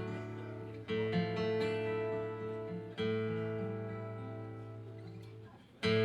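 Acoustic guitar strumming full chords, each struck once and left to ring out and fade, a new chord every two to three seconds, with no singing.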